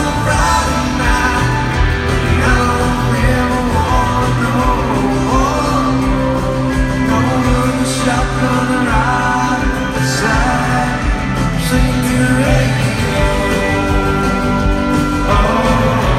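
Live country-rock band playing in an arena, with a voice singing a melody over it.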